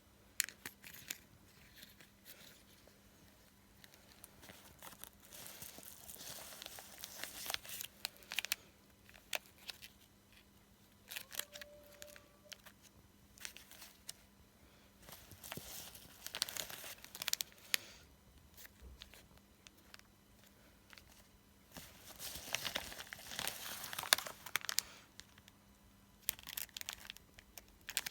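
Packaging being handled and torn open: bursts of crinkling and tearing with scattered sharp clicks, in a small room.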